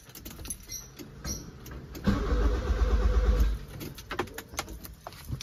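Nissan Sentra's starter cranking the engine for about a second and a half, starting about two seconds in and cutting off abruptly without the engine catching: the crank-but-no-start fault being chased.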